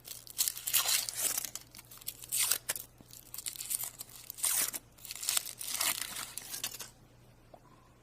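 The wrapper of a chocolate surprise toy being torn and crinkled open by hand, in several rustling bouts that stop about a second before the end.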